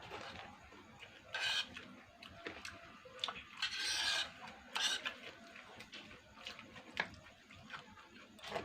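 Close-miked eating sounds: chewing, with a few short, louder, wet or rustling noises and sharp little clicks.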